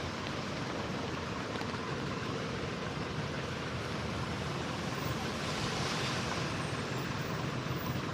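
Steady city street traffic noise, a continuous hiss and rumble, swelling briefly about six seconds in.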